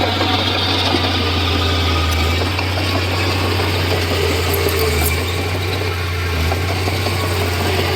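Komatsu D31P bulldozer's diesel engine running steadily at an even, low pitch.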